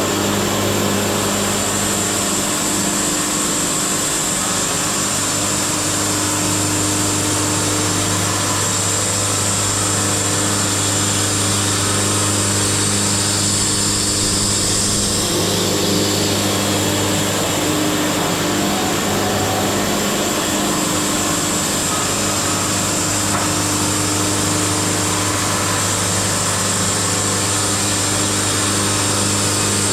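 Wood-Mizer LT70 band sawmill running steadily, its motor humming under a high whine that changes about halfway through.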